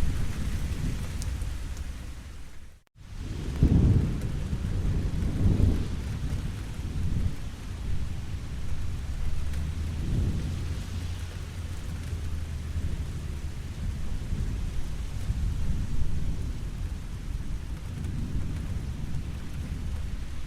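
Steady rain with deep rolling thunder rumbling underneath, swelling strongest about four and six seconds in and again near ten seconds. The sound drops out almost completely for a moment about three seconds in.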